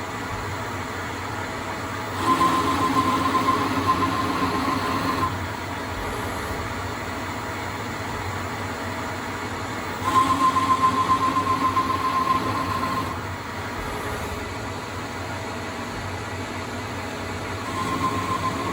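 Proto-Trak CNC lathe running steadily while threading a steel propeller shaft. Twice, about two and ten seconds in, a threading pass of about three seconds adds a steady high whine over the spindle hum, then stops as the tool retracts. These are the final spring passes, made with no added depth of cut.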